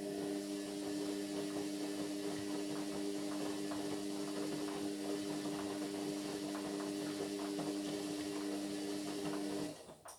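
Indesit MyTime washing machine moving water: a steady electric hum with rushing, gurgling water, cutting off suddenly near the end.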